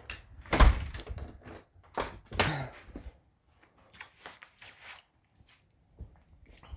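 A door shutting with a thump about half a second in, followed by a few lighter knocks and handling noises.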